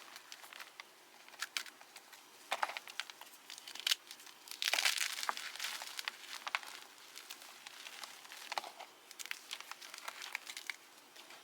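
A fresh block of Cap gym chalk being crushed, giving scattered crisp crunches and crackles as it crumbles, with a dense burst of crunching about five seconds in.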